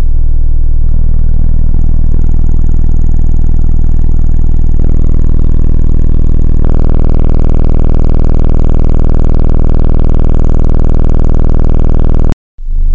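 Four 12-inch car subwoofers playing a steady 20 Hz test tone at high power, captured as a loud, distorted drone with a dense stack of overtones. The overtones grow harsher in steps about five and seven seconds in as the level is turned up. The sound cuts out briefly near the end.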